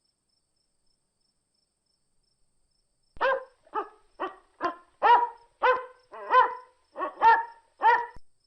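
A dog barking: about ten short barks in quick succession, starting about three seconds in.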